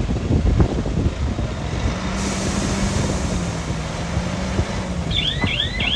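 Heavy diesel construction machinery running steadily with a low rumble, and a hiss joining about two seconds in. Near the end comes a quick run of high chirps, about four or five a second.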